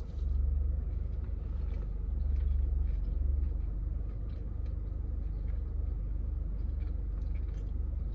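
A person chewing a spicy chicken nugget, with faint wet mouth clicks, over a steady low rumble that is strongest in the first three or four seconds.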